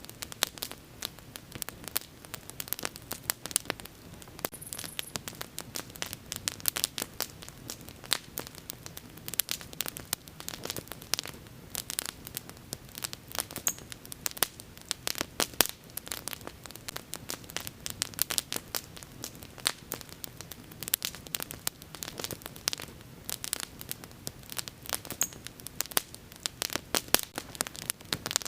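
Wood bonfire crackling: a dense, irregular run of sharp pops and snaps over a faint low hiss.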